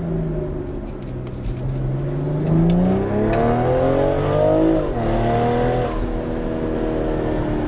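BMW M340i's turbocharged 3.0-litre straight-six, breathing through a Fi 200-cell downpipe and full exhaust, pulling under acceleration. Its pitch climbs for a few seconds, drops sharply at an upshift just before the middle, then holds fairly steady.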